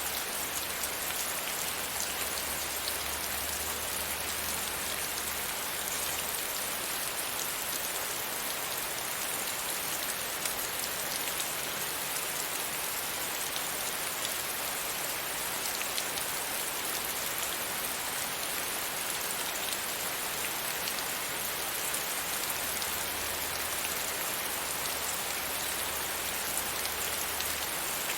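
Steady rain falling against a window pane, an even hiss of many fine drops pattering on the glass.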